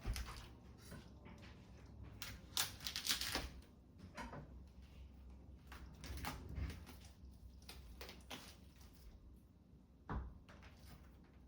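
Scattered light knocks, taps and clatters of household objects being handled and set down, with a busier cluster about two and a half to three and a half seconds in and a single knock near the end.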